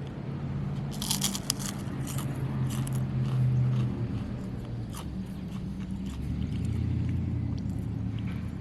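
A wavy potato chip bitten with a crisp crunch about a second in, then chewed with scattered smaller crunches, over a low steady hum.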